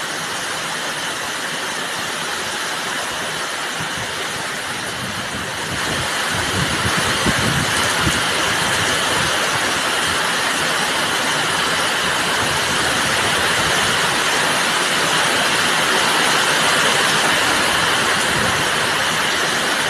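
Heavy rain pouring down in a storm: a steady hiss that grows louder about six seconds in.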